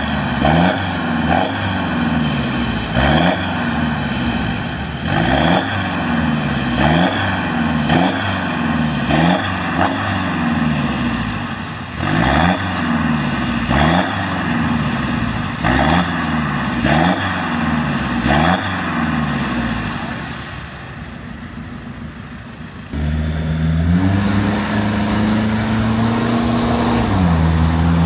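Ford Everest 2.0 single-turbo four-cylinder diesel revving through a straight-piped exhaust with the DPF removed. It gives a long series of quick throttle blips about one a second, each rising and falling in pitch. It then drops back to a quieter idle, and afterwards is held at a steady raised speed that shifts a step down near the end.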